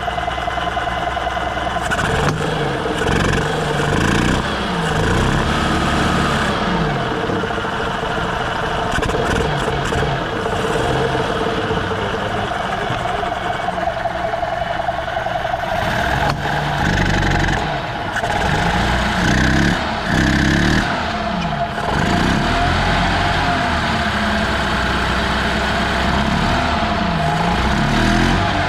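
Freshly installed remanufactured 350 cc single-cylinder four-stroke EZ-GO golf cart engine running just after its first start, revving up and down again and again, more often in the second half.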